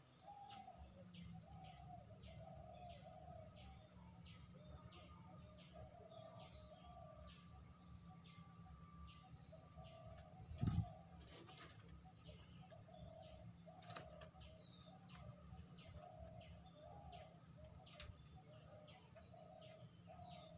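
Faint birds calling in the background: a high, short chirp repeated about one and a half times a second, with lower warbling calls in phrases. A single knock sounds about halfway through.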